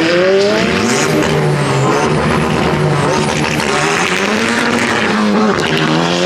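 A performance car's engine accelerating hard, its pitch climbing, dropping sharply about a second in at a gear change, then climbing again near the end.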